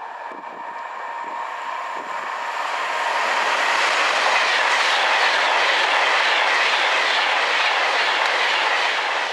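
Virgin Pendolino class 390 electric multiple unit passing through at speed. Its wheel and rail noise swells over the first three seconds as it approaches, then holds steady as the coaches run by.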